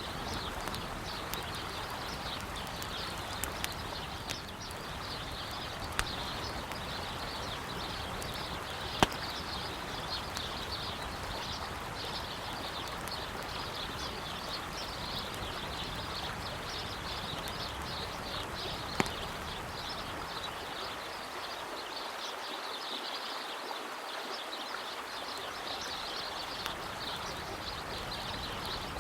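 Steady rush of a flowing river with birds chirping throughout, and a wood campfire crackling with a few sharp pops, the loudest about nine seconds in and another about ten seconds later.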